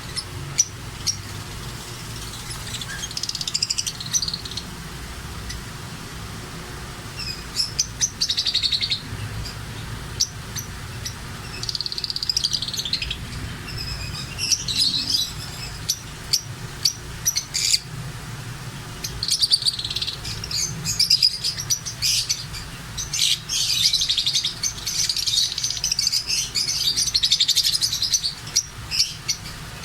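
Small cage birds chirping and tweeting in repeated bursts, growing busier and more continuous toward the end, with scattered sharp clicks over a low steady hum.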